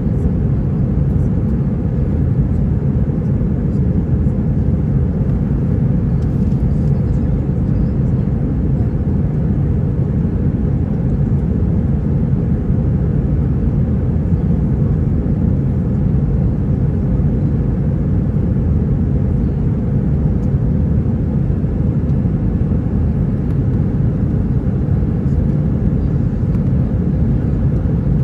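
Steady low rumble of engine and airflow noise heard inside the cabin of an Airbus A321-231, with its IAE V2500 turbofans at climb power shortly after takeoff.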